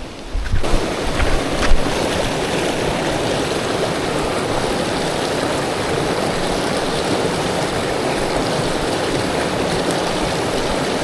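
Water rushing steadily, setting in abruptly about half a second in, with a few knocks in the first two seconds.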